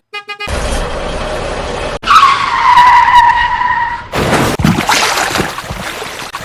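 Vehicle noise with a long screech about two seconds in that lasts about two seconds, sliding slightly down in pitch, like a tyre skid, then rougher running noise.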